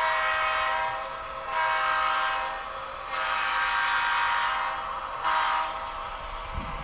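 Sound-equipped model Union Pacific GP38-2 diesel locomotive sounding its multi-chime horn through its onboard speaker: three long blasts, then a short one.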